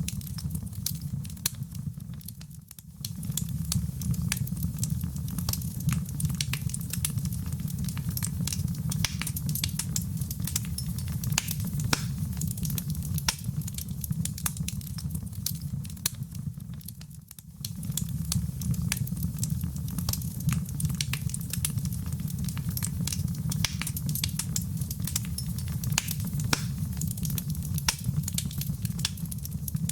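Wood fire in a fireplace burning steadily: dense, irregular crackles and small pops over a low rumble. The sound dips briefly twice, about three seconds in and again about seventeen seconds in.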